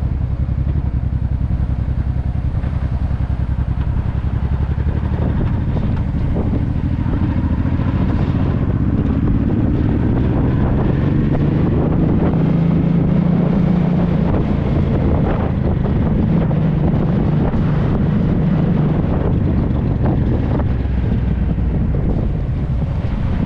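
Honda Deauville 650's V-twin engine breathing through an aftermarket Dominator exhaust, running under way with wind on the microphone. The engine note climbs about a third of the way in, holds, then drops near the end.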